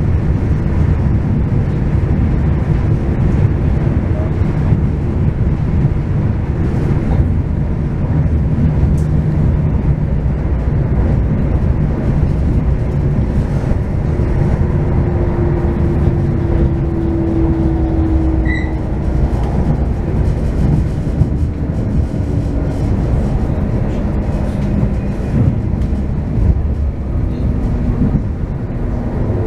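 Passenger train running: a steady low rumble of wheels on the rails, with a faint tone that sinks slightly in pitch around the middle and a brief high beep about two-thirds of the way through.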